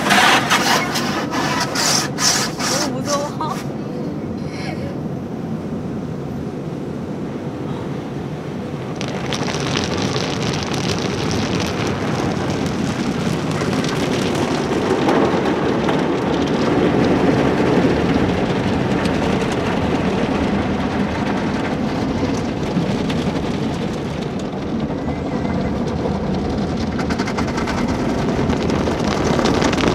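Automatic tunnel car wash heard from inside the car: water spray and washing brushes working on the car body. A quick series of knocks comes in the first few seconds, then a steady spray hiss that grows fuller about a third of the way through.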